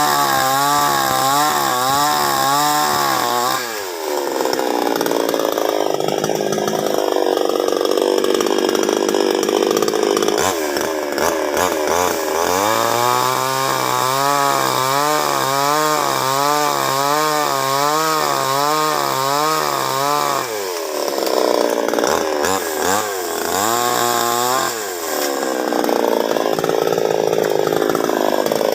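Chainsaw running and cutting, its engine pitch wavering up and down about twice a second, with stretches where the tone gives way to a rougher, noisier sound.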